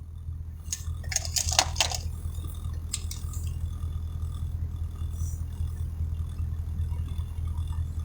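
Steady low hum of a car's cabin, from the engine and road, with a few short rattling clicks between about one and two seconds in and another near three seconds.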